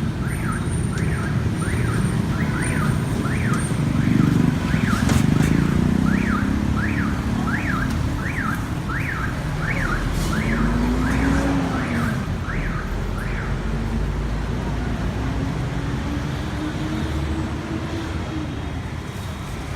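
A vehicle alarm sounding a rising whoop over and over, about one and a half times a second, over street traffic noise. The alarm stops about thirteen seconds in, while passing engines carry on.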